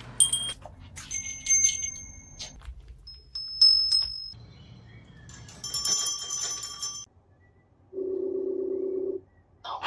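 Electronic chimes and beeps from a video-call app as the call is placed: a series of short, high, clean tones, then a steady buzzy ringing tone for about a second near the end.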